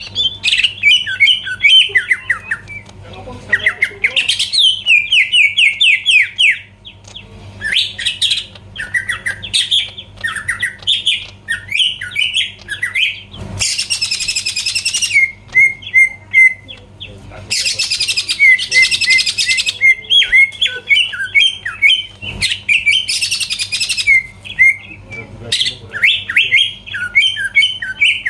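Leafbird (cucak ijo) singing a fast, varied song of rapid sweeping whistled notes, broken three times by loud harsh rasping chatter. A faint low hum runs underneath.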